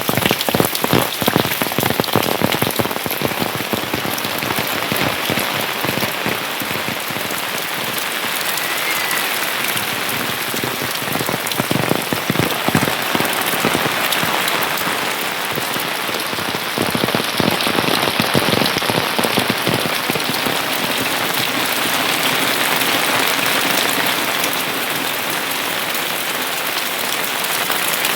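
Steady rain falling, with many close individual drops heard as quick taps among the even hiss of the downpour.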